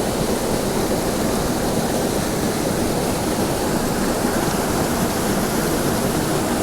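Steady rush of a waterfall pouring into a pool, an even wash of falling water with no break.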